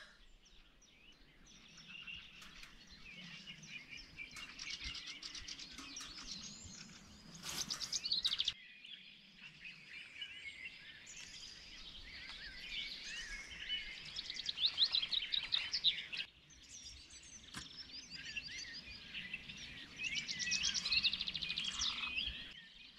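Songbirds singing, with many chirps and trills overlapping. The sound breaks off abruptly and starts again about a third and two thirds of the way through.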